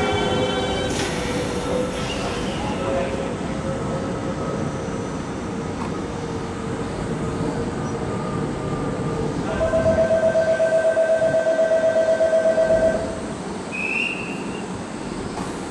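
Toei 5300-series electric train braking to a stop at a platform: its motors' stepped electric whine fades out about a second in, with a short burst of air hiss, over wheel and running rumble. Later an electronic tone pulses about five times a second for some three seconds.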